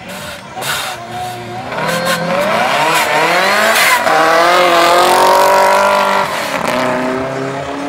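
BMW E30 drift car's engine revving hard as it accelerates past, the pitch climbing and dipping between gear changes, held high for about two seconds in the middle, then falling off near the end.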